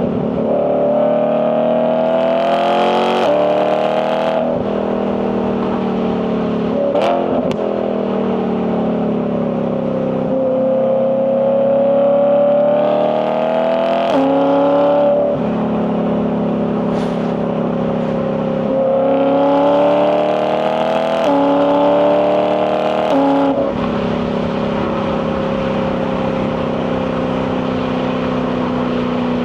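BMW E92 M3's 4.0-litre S65 V8 accelerating through the gears of its dual-clutch box: the revs climb and then drop sharply at each quick upshift, several times over, with a short crack at the shifts. Near the end the engine holds a steady, slowly easing pitch while cruising.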